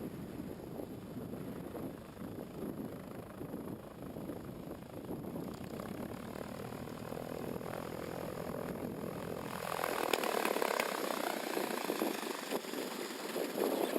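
Lake Amphibian seaplane's propeller engine running at a distance, a steady drone mixed with wind noise. About ten seconds in the sound changes abruptly, losing its low end and turning brighter and slightly louder.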